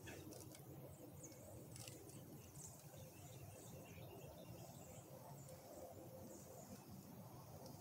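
Near silence of winter woods, with faint, short, high bird chirps scattered throughout.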